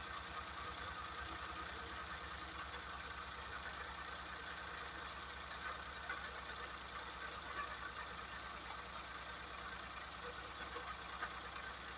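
Small car engine idling, a steady low throb.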